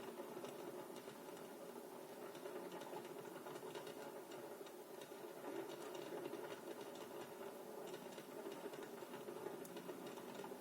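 Festive fireworks salute: a faint, continuous rapid crackling and popping of many small shells, with no single big bang.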